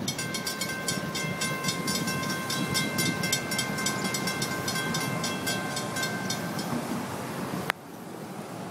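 Freight train cars rolling past with a steady rumble, a high ringing squeal of several held tones and rapid clicking from the wheels. Near the end there is a sharp click and the sound drops off suddenly.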